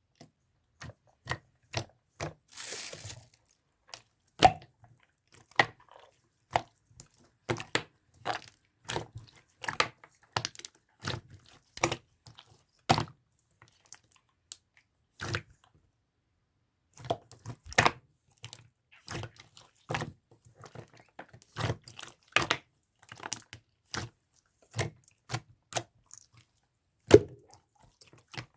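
Translucent slime being squeezed and pressed by hand, giving irregular sharp pops and clicks with silence in between. There is a short crinkly rustle about three seconds in, and a lull of a few seconds around the middle.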